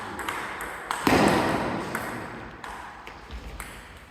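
Table tennis ball clicking sharply off bats and table several times during play. About a second in there is a louder sudden burst of noise that fades away slowly.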